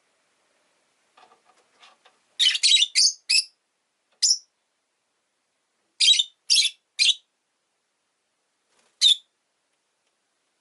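Rosy-faced lovebird giving short, sharp, high chirps in bursts: a quick run of four about two and a half seconds in, a single chirp, a run of three, then one more near the end.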